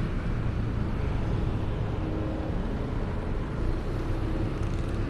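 A vehicle engine running steadily, a low, even rumble with some road or wind noise over it.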